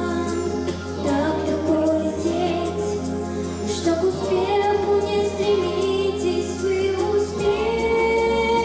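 A young girl singing a pop ballad over an instrumental backing track.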